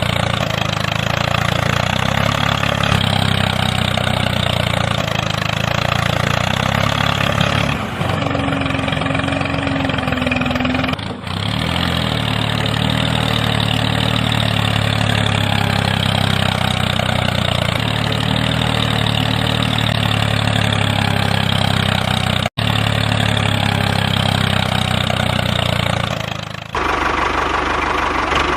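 A small motor running steadily, with the sound changing abruptly several times and dropping out for an instant once.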